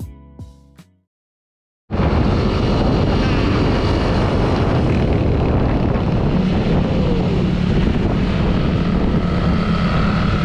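The last plucked notes of background music die away, then after a second of silence a motorcycle's engine and heavy wind on the microphone start abruptly about two seconds in, running loud and steady as it rides.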